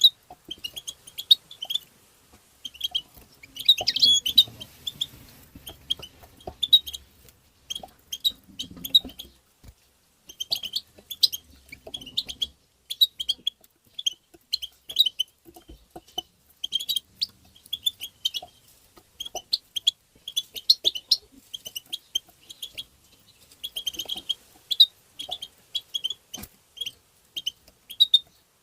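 European goldfinch giving its rapid twittering 'tabteba' calls: short high chirps strung together in quick bursts with brief gaps between them.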